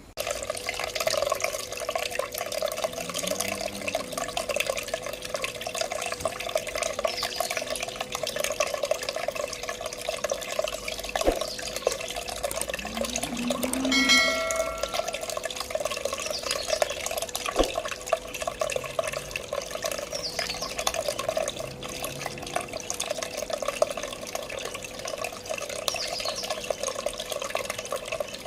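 Water trickling and splashing steadily down a small cement tabletop waterfall in a pot, over a steady hum. A short pitched sound rises above it about halfway through.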